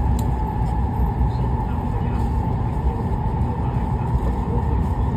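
Hokuriku Shinkansen bullet train running at speed, heard inside the passenger cabin. There is a steady, loud low rumble with a constant mid-pitched hum over it.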